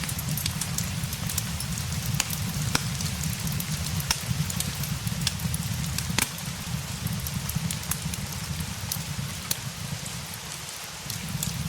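Steady rain ambience with scattered sharp crackles from a fireplace mixed in, over a steady low rumble that dips briefly near the end.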